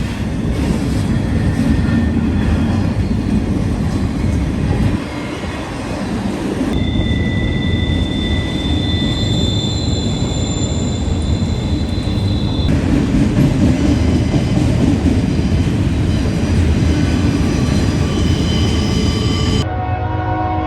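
Freight train passing close by: a steady heavy rumble of wheels and railcars on the rails, with thin steady high-pitched squeals through the middle stretch. Near the end a locomotive horn sounds a sustained chord.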